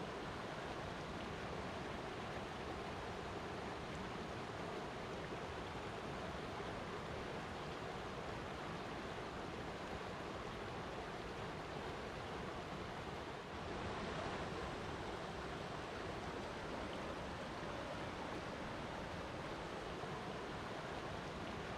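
Flowing water rushing steadily, with a brief slight dip about two-thirds of the way through.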